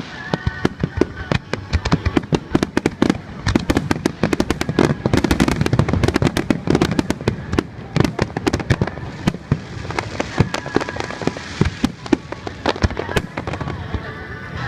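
Fireworks display: a rapid barrage of sharp crackling reports, densest in the middle where heavier low booms pile up, thinning out near the end.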